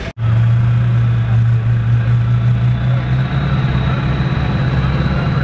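Diesel truck engine running at a steady idle, a low drone that steps up slightly in pitch about three seconds in.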